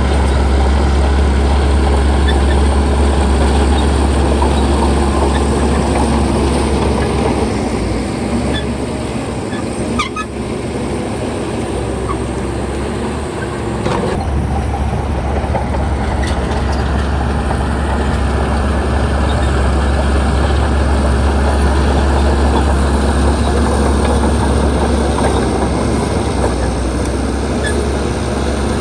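Crawler bulldozer's diesel engine running loud and steady under work, with the rattle of its steel tracks. The engine note eases for a few seconds about a third of the way in, with a couple of sharp metal clanks, then picks back up.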